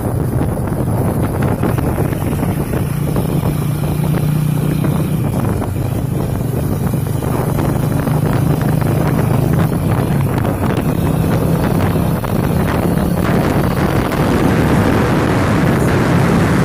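Truck engine running steadily with a low hum that shifts slightly in pitch, mixed with wind noise on the microphone.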